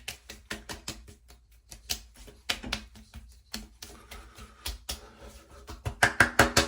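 Hands patting and slapping a freshly shaved face to work in witch hazel astringent: a quick, irregular run of light slaps, growing denser and louder near the end.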